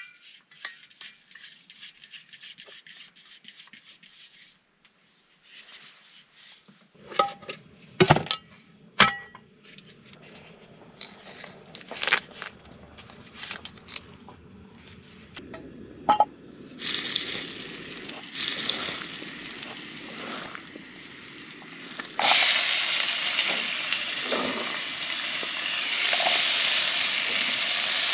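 Cooking at a pan: scattered clinks and knocks of utensils and cookware, then food sizzling in a hot pan, starting faintly about two-thirds of the way through and turning loud and steady a few seconds later.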